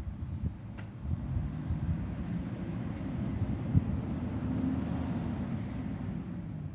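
Garbage truck running with a steady low engine rumble, joined about a second in by a long hiss of air.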